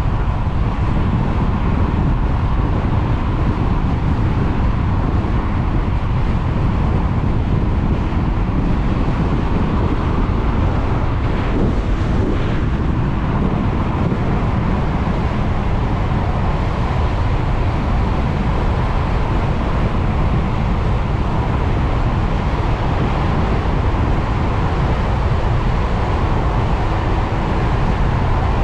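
Steady wind rush buffeting the microphone, with tyre and road noise, while riding a 72-volt electric motorcycle at speed. A faint steady high tone runs underneath, and there is a brief brighter sound about twelve seconds in.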